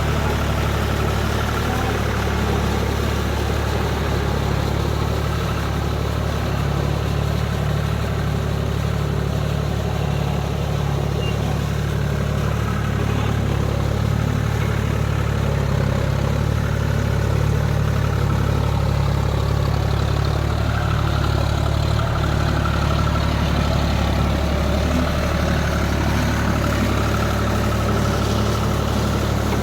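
John Deere 5042D tractor's three-cylinder diesel engine running steadily while working a rotavator, with an even, unchanging drone.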